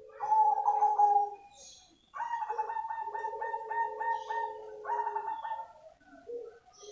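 Zebra dove of the black cemani variety cooing: a short coo, then after a brief pause a longer phrase of quick, rolling notes, about three a second.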